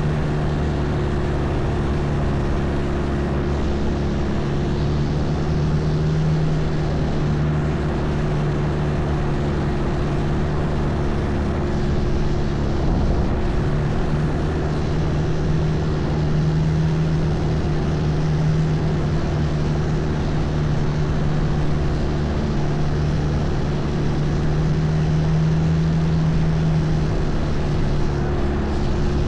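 Long-tail boat's engine running at a steady cruising speed, a loud, even drone.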